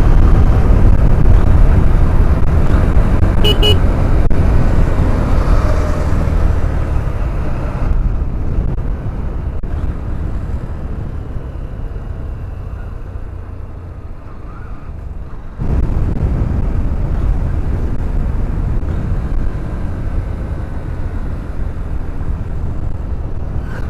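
Motorcycle riding along, engine running under heavy wind and road rush. The sound eases after about eight seconds and jumps back up suddenly around sixteen seconds in.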